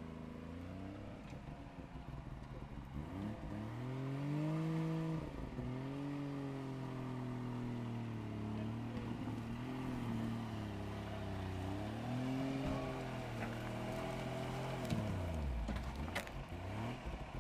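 Engine of a Suzuki four-wheel drive working up a rocky climb, its revs rising and falling again and again. About fifteen seconds in the revs drop sharply and climb back, and there is one sharp knock soon after.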